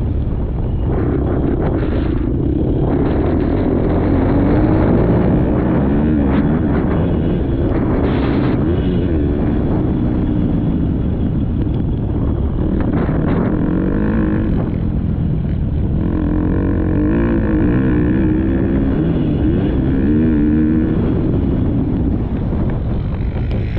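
Motocross dirt bike engine revving up and down repeatedly as the rider works the throttle and gears around the track, with wind and track noise buffeting the action-camera microphone.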